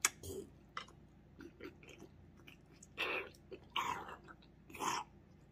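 Close-miked chewing of a mouthful of steak: wet mouth clicks and smacks, with three louder bursts of chewing noise between about three and five seconds in.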